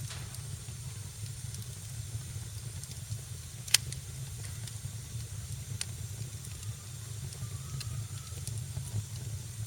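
Wood fire crackling in a fireplace: a steady low rumble and hiss with sparse sharp crackles, and one loud pop about four seconds in. A faint, brief whistle comes near the end.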